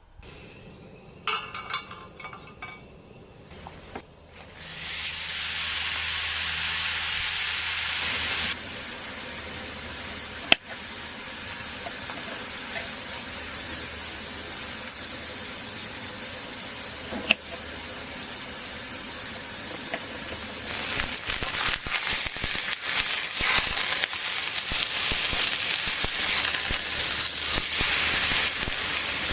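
A steady hiss starting a few seconds in, with two sharp clicks, turning into a rougher, crackling sizzle in the last third.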